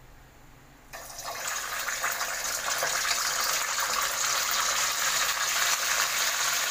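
Pre-cooked pork dumplings going into hot cooking oil in a wok and frying. The sizzle starts suddenly about a second in and swells within a couple of seconds to a steady, loud hiss.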